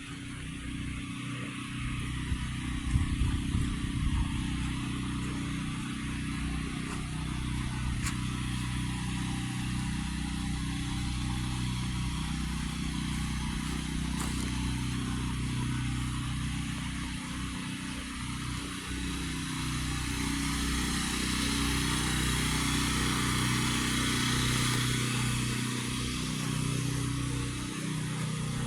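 An engine running steadily, its low hum overlaid with a steady hiss.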